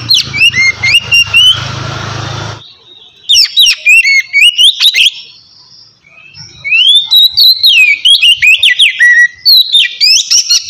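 Oriental magpie-robin (kacer) singing loud, clear whistled phrases in the 'ngeplong' style: three runs of quick notes sliding up and down, the last and longest in the second half. A low hum and hiss sit under the first couple of seconds.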